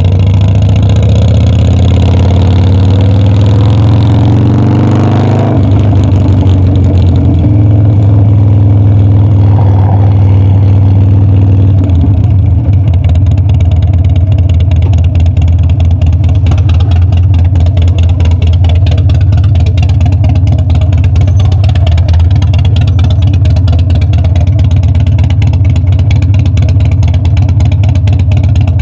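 Harley-Davidson Dyna's 45-degree V-twin running under way: it accelerates with rising pitch, shifts up about five and a half seconds in, pulls briefly again, then settles into a steady cruise with a fast, even pulse.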